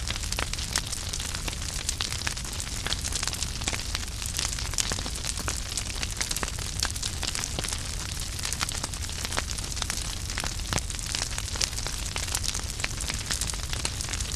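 Wood fire crackling steadily: a continuous hiss with many small sharp pops and snaps, over a low rumble of flame.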